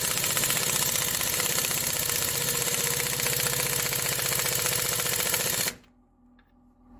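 A power tool runs with a fast, even rattle for nearly six seconds, then stops abruptly, tightening the centre bolts that draw the bearing and shaft into the Manitou's rear brake hub.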